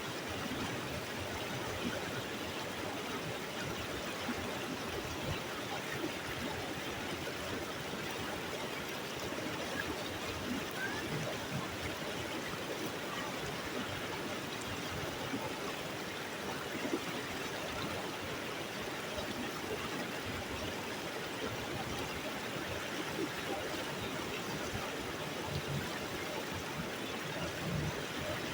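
Stream water flowing steadily, an even rushing wash with no pauses.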